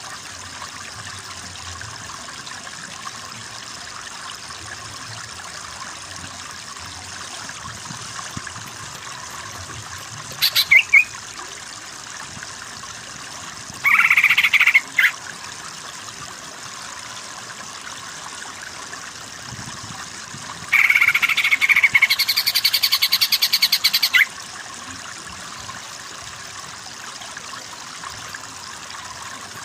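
Greater green leafbird (cucak ijo) singing in three loud bursts, the longest about three seconds near the end, over a steady background of running water.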